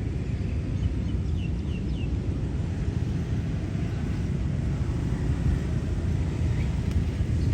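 Steady low rumble with a few faint, short, falling chirps from a small bird about one and a half to two seconds in.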